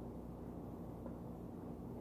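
Soft, faint chewing of a mouthful of fried rice, with a few small mouth clicks about a second in, over a steady low hum.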